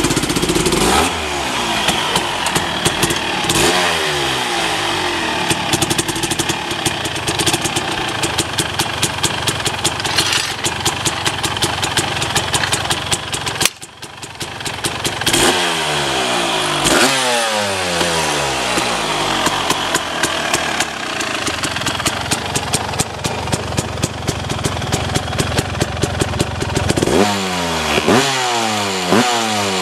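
Suzuki RMX250's single-cylinder two-stroke engine running hard, its throttle opened and closed repeatedly so the revs rise and fall away again, several times over. The sound dips briefly about halfway through.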